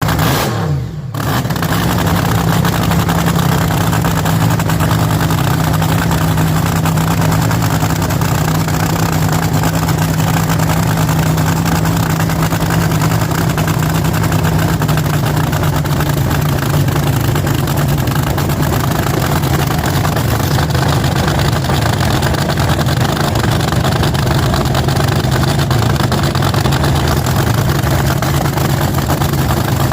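Drag car engine catching about a second in, then running loudly and steadily at idle.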